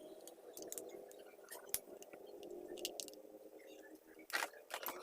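Scattered light clicks and short scrapes from handling and cleaning mini chainsaw parts, with a denser cluster about four and a half seconds in, over a faint steady hum.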